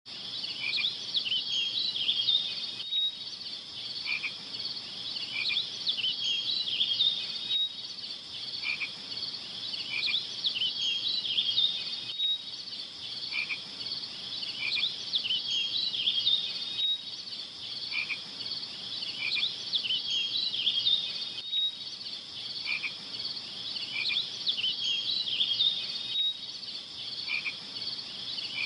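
Frog chorus: many small frogs calling together in dense, short, high chirps and trills. The same few seconds of chorus repeat over and over as a loop, about every four to five seconds.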